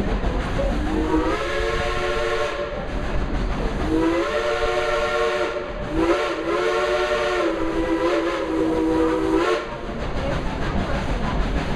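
The Dollywood Express coal-fired steam locomotive sounding its chime whistle in three blasts, the first rising in pitch as it opens and the last the longest, over the rumble of the moving train.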